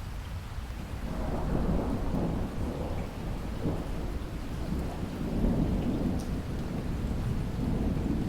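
Steady rain with a long, low rumble of thunder that builds about a second in and rolls on through the rest.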